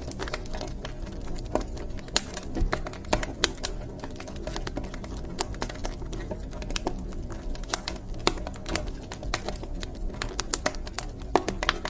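Wood fire crackling in a fireplace: irregular sharp snaps and pops, several a second, over a low steady rumble of the burning logs.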